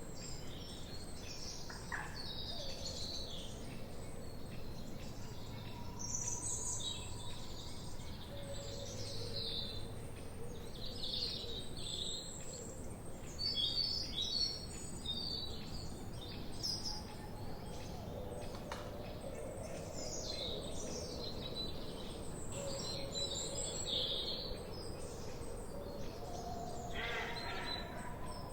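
Forest birds chirping and singing, several at once: many short high chirps and trills overlapping throughout, with a few longer, lower drawn-out notes, over a steady background hiss of forest ambience.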